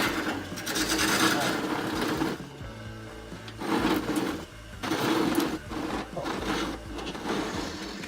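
Wood lathe spinning a birch burl bowl blank while a turning tool cuts into it in irregular bursts, a rasping scrape over the lathe's steady hum, as the foot is cut in.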